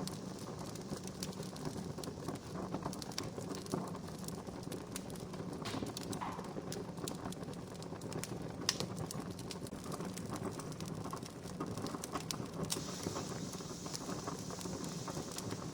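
Wood campfire crackling, with frequent small pops and snaps over a steady hiss of burning and one sharper snap about nine seconds in.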